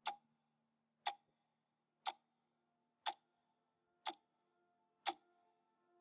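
Sharp, evenly spaced ticks, one each second, six in all, with faint held musical tones coming in softly underneath from about halfway through.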